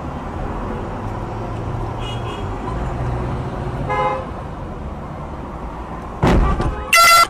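Steady car road noise with short car horn beeps around two and four seconds in. Near the end comes a loud noisy burst, then a loud car horn blast, the loudest sound here.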